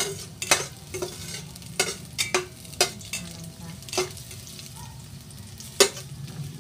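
Garlic and ginger sizzling in a little oil in a cooking pot while being stirred, with a utensil knocking and scraping against the pot at irregular moments.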